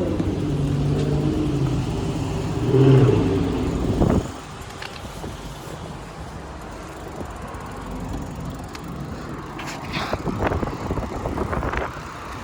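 A motor vehicle's engine running nearby with a steady low hum, cutting off abruptly about four seconds in. Quieter street noise follows, with a few short clicks and rattles near the end.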